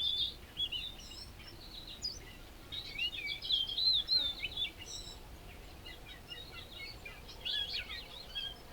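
Small songbirds chirping and warbling in quick, varied phrases, busiest in the middle and again near the end, over a faint steady outdoor hiss.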